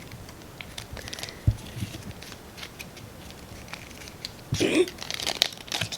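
Handling noise as a bag and a sticker sheet are sorted through: scattered light clicks and rustles, a soft thump about a second and a half in, and a louder flurry of rustling near the end.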